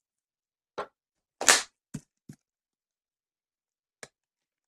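Plastic shrink wrap being torn and crinkled off a board game box: a few short, sharp rustles, the loudest about a second and a half in, then two small ones and a last faint one near the end.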